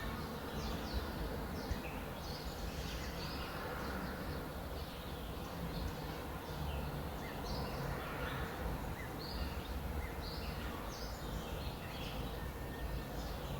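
Small birds chirping and twittering in many short calls throughout, over a steady low rumble.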